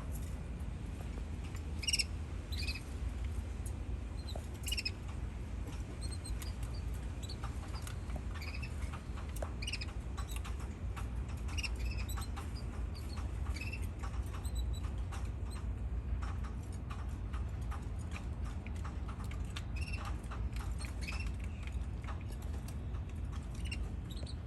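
Canaries giving short, scattered chirps and call notes, with small clicks and pattering in between, over a steady low hum.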